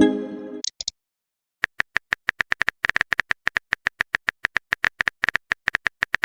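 Rapid typing-click sound effect, several sharp clicks a second, starting about a second and a half in. It follows a short pitched sound effect at the very start.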